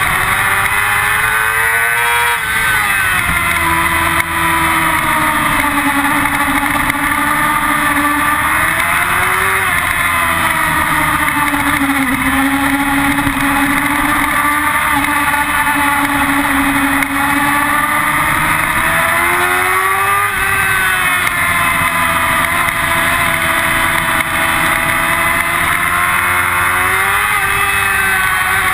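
Yamaha R6's 600 cc inline-four engine at high revs on track, its pitch climbing and dropping several times with throttle and gear changes through the corners.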